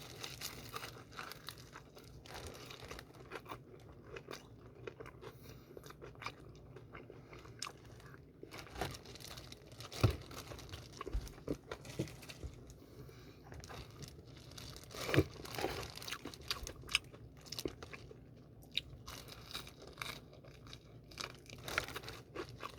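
Close-up chewing and crunching of BHC Puringkle fried chicken's crisp, seasoned coating: irregular small crunches throughout, with a few louder bites about ten and fifteen seconds in.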